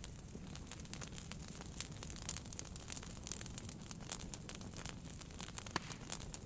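Wood fire in a fireplace crackling: a steady scatter of small pops and snaps over a low rumble of flames, with one sharper pop near the end.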